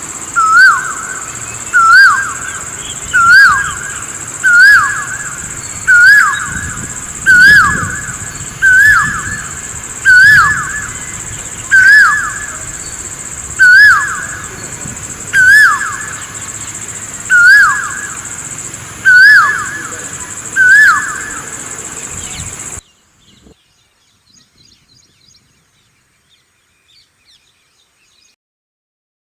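A bird repeating one loud, hooked call note about every one and a half seconds, some fifteen times, over a steady high-pitched hiss. Both stop abruptly near the end, leaving near silence with a few faint ticks.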